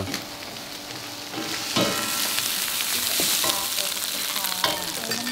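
Fried rice frying in a hot wok, sizzling, with the scrape of a metal spatula stirring it. The sizzle swells sharply about a second and a half in, as the soy sauce is poured into the pan.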